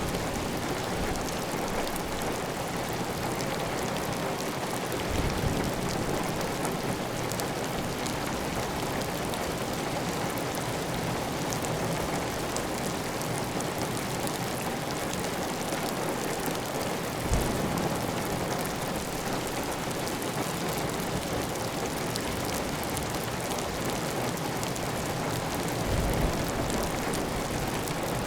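Heavy, steady rain on a clay tile roof, with water running off the roof edge. A few short low thuds stand out about 5, 17 and 26 seconds in.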